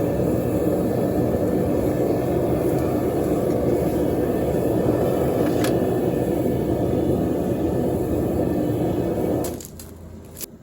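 Gas burner of a metal-melting furnace running, a steady, loud rushing roar, until it cuts off about nine and a half seconds in; a couple of light clicks follow.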